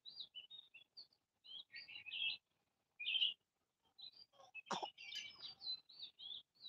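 Small birds chirping and twittering, many short high calls one after another. A single sharp click about three-quarters of the way through stands out above them.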